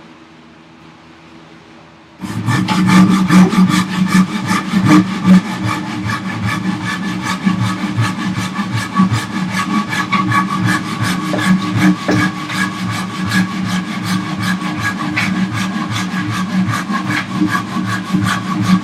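Flexible flush-cut hand saw, worked two-handed, sawing through a wooden block in quick back-and-forth strokes. The sawing starts about two seconds in and carries on steadily to the end.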